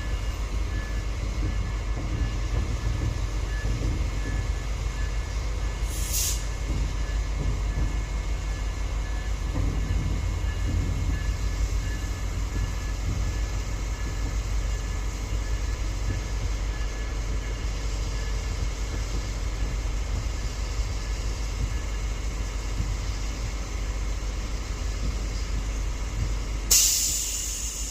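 Metra diesel commuter train running with a steady low rumble, with a brief hiss of air about six seconds in and a louder burst of air hiss near the end.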